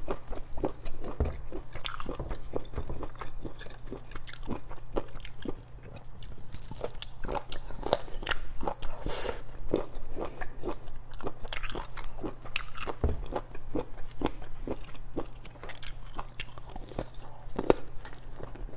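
Close-miked chewing and biting of octopus tentacle: irregular wet mouth clicks and smacks, over a low steady hum.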